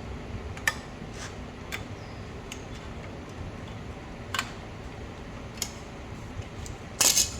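Scattered light metallic clicks and taps from brake-pad hardware, the pad's metal clips and the pad, being handled and fitted into a brake caliper, then a short, louder scrape near the end.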